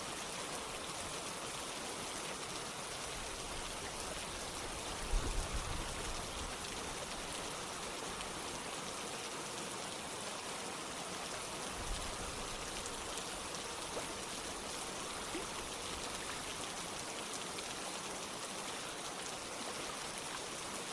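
Steady rain with running water, an even hiss. A short cluster of low thumps comes about five seconds in, and a single brief low thud near the middle.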